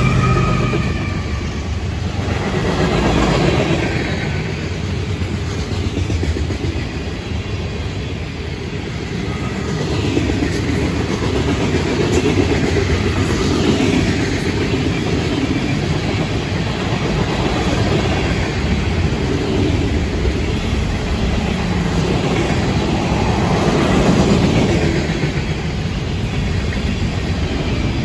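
Florida East Coast Railway freight cars (covered hoppers, boxcars, tank cars and flatcars) rolling past at speed: a steady rumble and clatter of steel wheels on rail that swells and eases as the cars go by.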